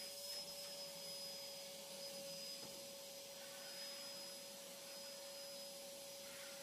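A steady, faint motor hum with a constant whine over an even hiss, unchanging throughout.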